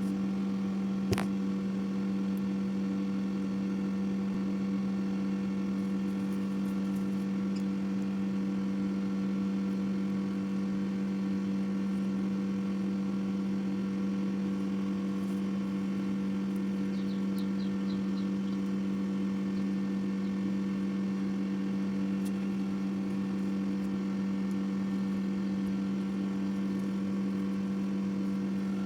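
A steady hum, one fixed low tone with overtones, unchanging throughout, with a single sharp click about a second in.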